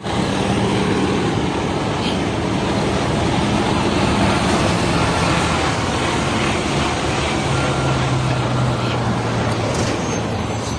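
Steady road and engine noise of a moving motor vehicle, with a low engine hum that drops in pitch about seven seconds in.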